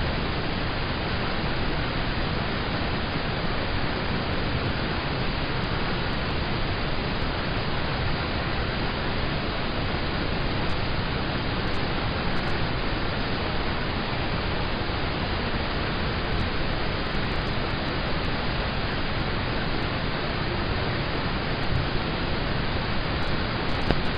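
Rain on a car heard from inside the cabin: a steady, even hiss with no single drops standing out.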